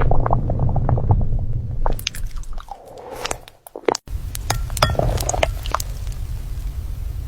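A person chewing and biting soft lava cake, with wet squishing mouth sounds and many small clicks. The sound drops out briefly about four seconds in.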